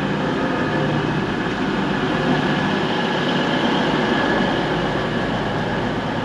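CrossCountry Voyager diesel train standing at the platform after arrival, its underfloor diesel engines idling with a steady hum.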